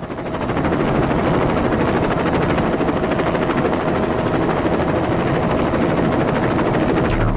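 Electric RC helicopter in flight: a rapid chop of spinning rotor blades with a steady, high-pitched motor whine. It gives way to music near the end.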